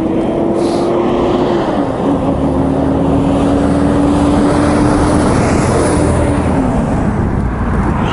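A vehicle running at road speed, with steady wind and road noise and an engine tone that drops in pitch about two seconds in and again near the end.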